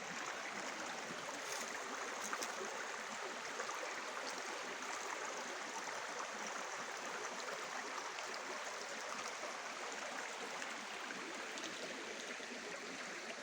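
Small forest stream running steadily over its bed, a continuous babble of flowing water.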